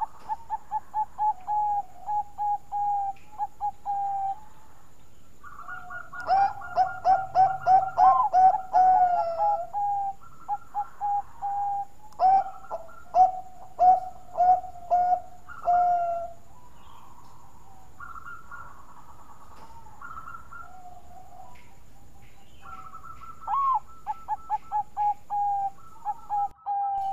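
Zebra dove (Bangkok-strain perkutut) cooing: four bouts of quick, rolling coo notes separated by short pauses.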